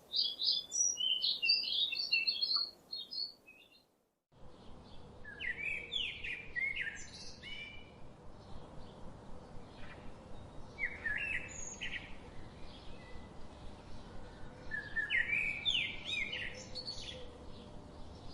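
Songbirds singing: a fast run of high chirps, then a brief cut to silence, then another bird's song phrases repeated every few seconds over faint background hiss.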